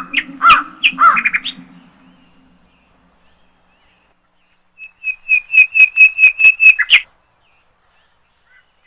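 Montezuma oropendola calls: several loud, gurgling calls that bend in pitch in the first second and a half, then after a pause a rapid run of about ten short, sharp clicking notes at roughly five a second, stopping abruptly.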